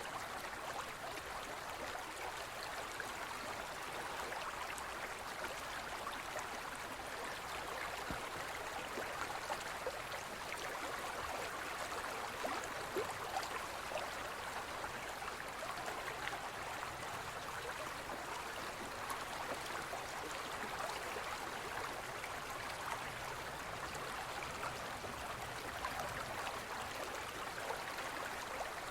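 Forest stream flowing steadily over rocks, a continuous even rushing and babbling of water.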